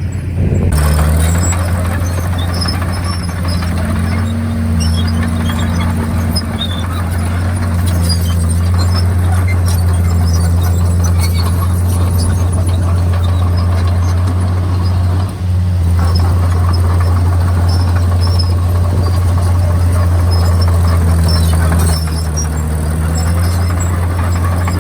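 Komatsu D51PX bulldozer's diesel engine running steadily under load, a constant deep drone, with scattered high clinks over it.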